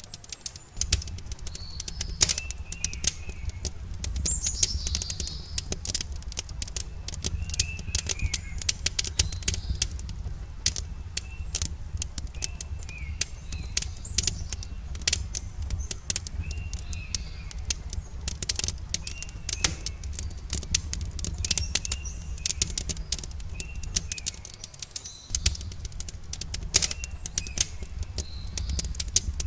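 Wood campfire crackling with many sharp pops and snaps over a steady low rumble, while birds give short chirping phrases every few seconds.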